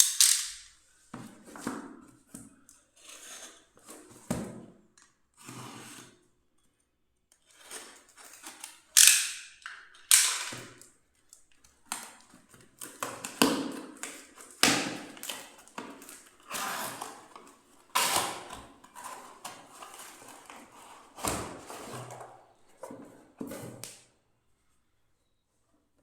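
Hands unpacking a boxed leather belt: a string of irregular clicks, knocks and rustles as the box, wrapping and belt are handled. The sharpest click comes about nine seconds in, and the handling stops a couple of seconds before the end.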